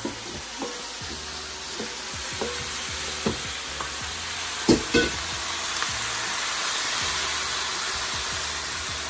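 Grouper head pieces with sliced peppers and onions sizzling as they hit a hot pan of curry base and are stirred with a wooden spoon, the sizzle building as the pan fills. Two sharp knocks about halfway through, with lighter scrapes and taps of the spoon throughout.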